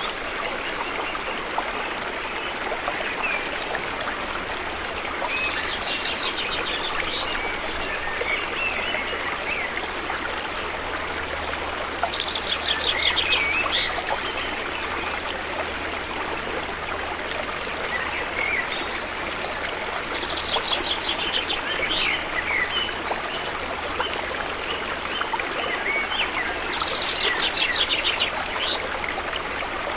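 River water flowing steadily. A songbird repeats a fast trilling song about every seven seconds, with scattered short chirps between.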